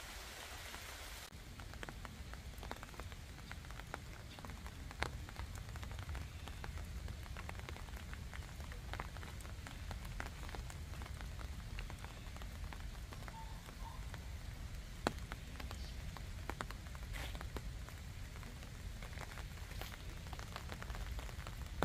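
Rain falling in a wooded park, the separate drops heard as many sharp ticks, with two louder drops about 5 and 15 seconds in, over a low steady rumble. About a second in, a high hiss gives way to this.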